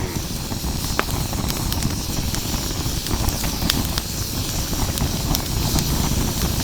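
Wood fire burning hard in a fire pit: a steady low rushing rumble of flames drawing air, with scattered sharp crackles and pops from the burning logs. The fire is in vigorous secondary combustion, throwing up ghost flames, and its sound is loud.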